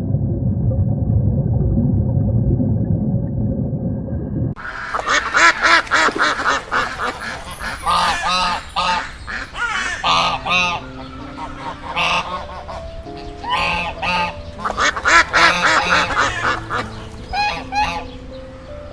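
Geese honking repeatedly in quick, overlapping calls, starting about four and a half seconds in, over background music.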